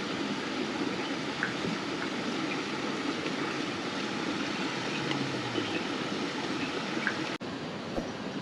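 Steady rushing of a waterfall and its stream. The sound drops out briefly for a moment about seven seconds in.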